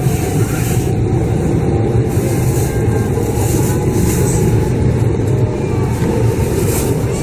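Steady running noise inside a Shinkansen passenger car at speed: an even low rumble.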